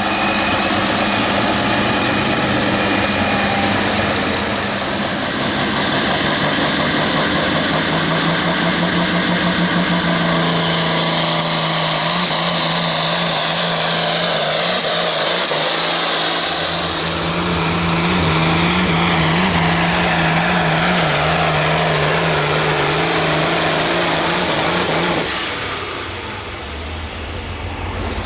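International Harvester pulling tractor running at full throttle, hauling a weight-transfer sled down the track. The engine holds a steady, loud pitch for about 25 seconds, then drops off near the end as the pull finishes.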